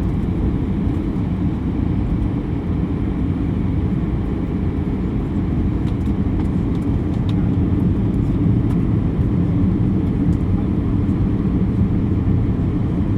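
Steady low rumble of an Airbus A320's cabin noise on approach: engines and airflow heard from inside the passenger cabin, with a few faint ticks midway.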